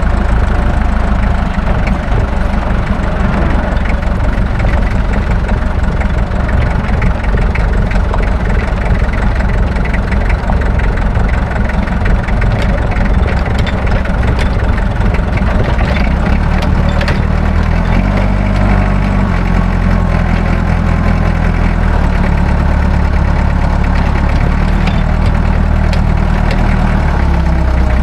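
An engine idling steadily, its low hum shifting in pitch a few times in the second half, with light rapid ticking over it.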